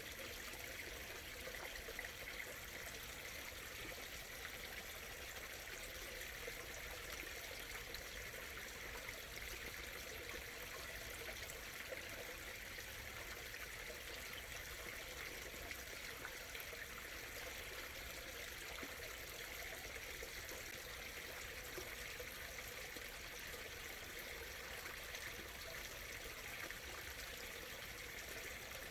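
Shallow stream murmuring and trickling over stones, steady and unbroken.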